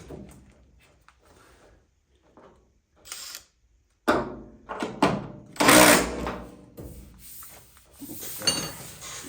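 Metal clunks and scraping from a square-body Chevy truck door being worked into alignment on the cab, starting about four seconds in, loudest around six seconds in, with another knock near the end that rings briefly.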